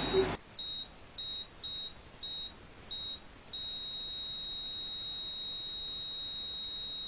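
Patient heart monitor beeping, short high beeps about twice a second, then going into one unbroken flatline tone about three and a half seconds in: the patient's heart has stopped.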